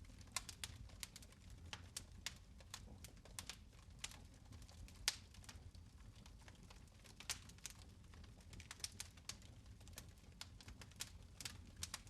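Fire in a fireplace crackling: irregular sharp pops and snaps, a few a second, with one louder pop about five seconds in, over a faint low rumble of the flames.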